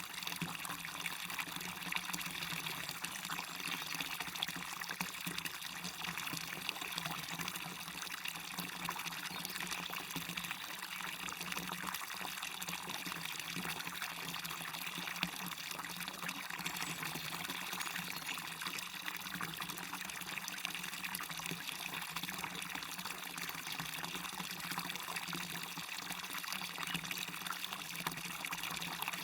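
Water pouring and splashing steadily over a small waterfall, an even, unbroken rush without separate events.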